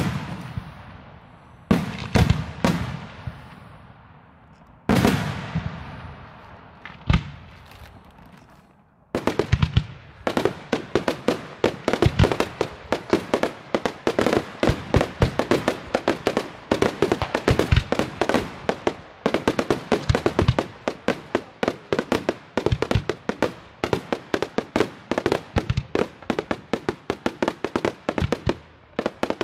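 Daytime fireworks: a few heavy shell bursts, each followed by a fading crackle. About nine seconds in, a dense, rapid string of bangs begins and keeps going.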